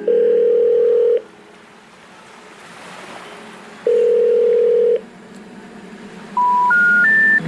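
Telephone call tones: two long, steady ringing beeps about three seconds apart, then three short tones stepping up in pitch near the end. That rising three-note signal is the special information tone that comes before a recorded 'number cannot be reached' message.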